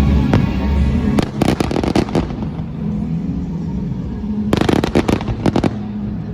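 Aerial fireworks going off in rapid crackling volleys of sharp bangs: one cluster at about one to two seconds in, another from about four and a half to nearly six seconds.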